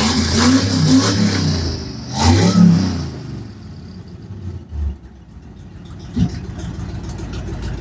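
Ford Ranger engine through a freshly built exhaust, a header into a 2.5-inch collector and a straight 3-inch pipe, revved hard twice, then settling back to a steady idle. A short knock about six seconds in.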